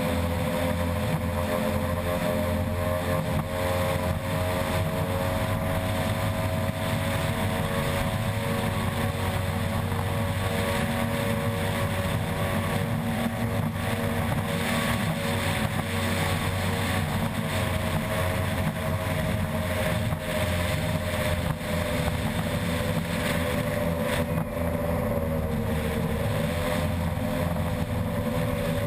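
Unlimited-class ski race boat's outboard engine running at high speed, holding a steady pitch, with a brief dip and recovery in pitch near the end.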